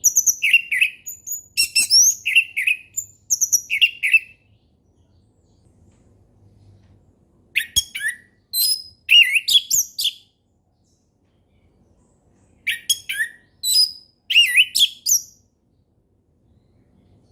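Orange-headed thrush singing in three phrases of quick, varied whistled notes, each a few seconds long and separated by pauses of two to three seconds.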